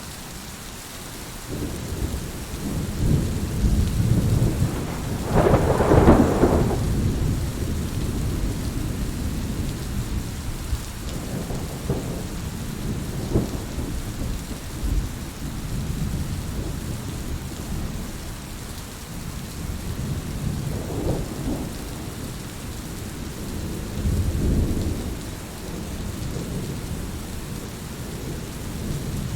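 Heavy rain falling steadily, with rolling thunder: a loud rumble peaks about six seconds in, and lesser rumbles follow later.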